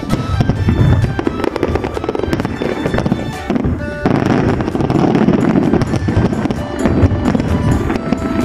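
Fireworks bursting and crackling in a dense barrage, with music playing along, the barrage thickening suddenly about halfway through.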